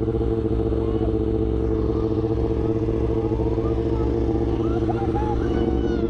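A vehicle engine idling steadily, a constant low rumble with an unchanging drone over it.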